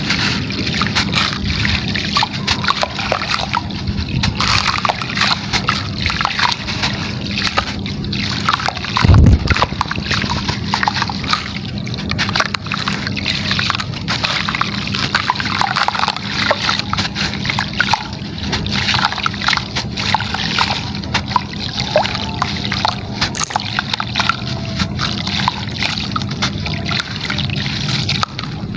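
Gritty material crumbling and splashing into water, a dense run of small crackles and sloshes over a steady low hum. One heavy thump comes about nine seconds in.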